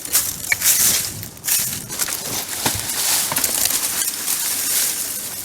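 Footsteps crunching and rustling through dry leaves and brush in irregular surges.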